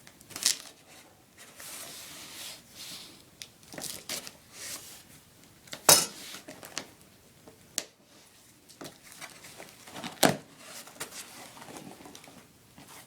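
A cardboard shipping package being handled and opened: scraping, tearing and rustling of cardboard and packing material. A few sharp knocks stand out, the loudest about six seconds in and another about ten seconds in.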